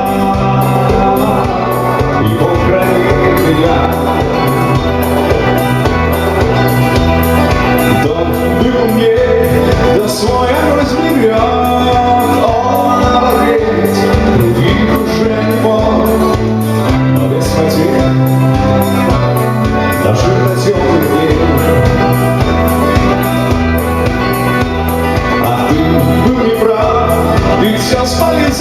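A live rock band playing a song, with a steady drum beat, a repeating bass line and electric guitar.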